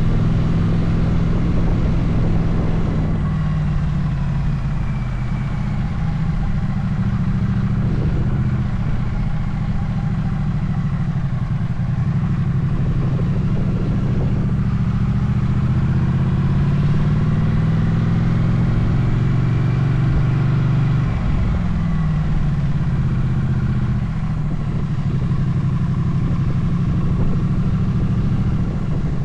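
Motorcycle engine running on the move, its revs rising and falling again and again.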